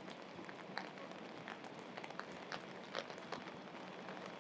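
Steady rainfall: an even hiss with scattered sharp drops striking close by.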